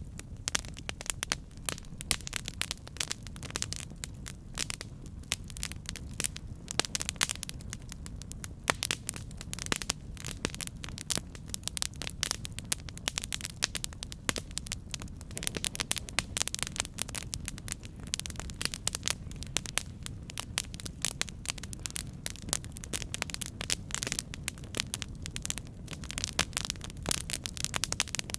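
Campfire burning, wood crackling and popping in dense, irregular snaps over a steady low rumble of the flames.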